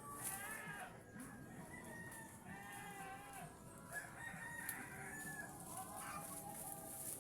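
Chickens clucking and crowing, several birds calling over one another.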